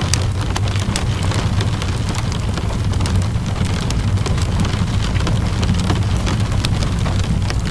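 Steady rainfall mixed with a crackling wood fire: scattered sharp pops and clicks over an even hiss of rain and a low rumble.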